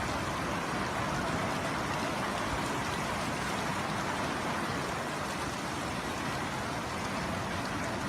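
Heavy rain pouring down in a steady, even hiss during a rainstorm.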